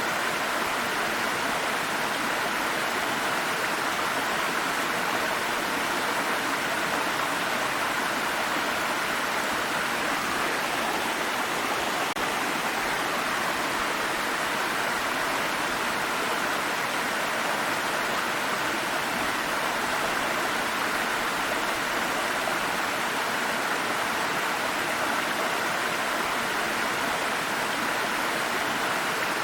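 Small stream of water flowing steadily over rocks, an even rushing burble with no change or other events.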